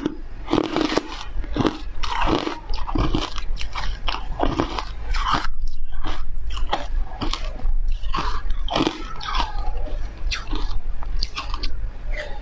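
Close-up crunching and chewing of foam ice: a quick, irregular run of sharp crunches as the ice is bitten and chewed, with a short softer spell in the middle.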